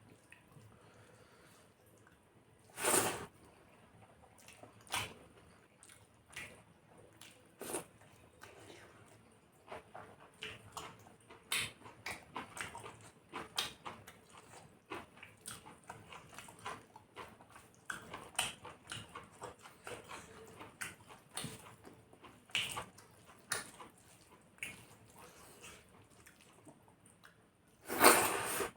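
Close-up eating sounds of chicken curry and rice: irregular wet chewing and lip smacks, with two louder, longer noises about three seconds in and near the end.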